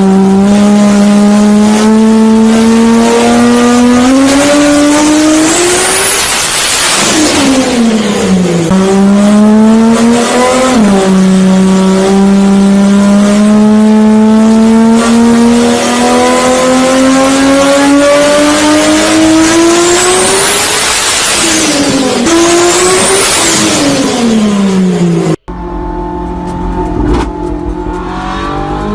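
A loud, high-revving car engine and exhaust accelerating: the note climbs steadily and drops sharply at each gear change, several times. Near the end the sound cuts abruptly to a quieter engine revving.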